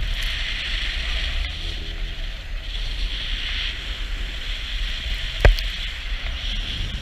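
Car driving through deep snow: a steady low engine rumble under the hiss of tyres and snow, swelling and easing every second or so, with one sharp knock about five and a half seconds in.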